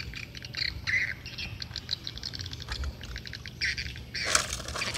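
Small birds chirping, short high calls scattered throughout. A brief rustling noise a little after four seconds in.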